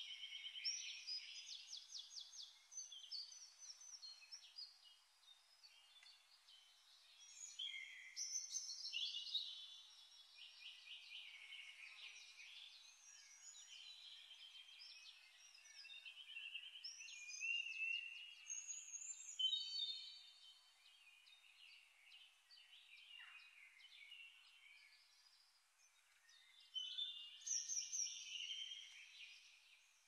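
Faint birdsong: several birds chirping, with fast trills and short whistled glides coming and going in bursts.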